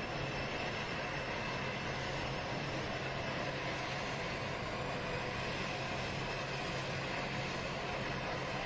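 Jet turbines of Air Force One, a Boeing VC-25A, running steadily on the airfield: an unchanging whine over a low rumble.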